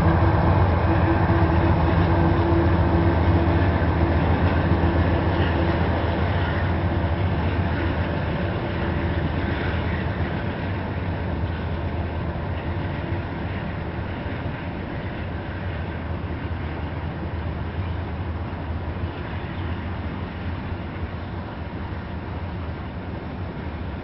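Union Pacific unit coal train passing: the diesel locomotives' engine hum is heard in the first several seconds, then a long string of coal hopper cars rolls by with a steady rumble of steel wheels on rail that slowly grows quieter.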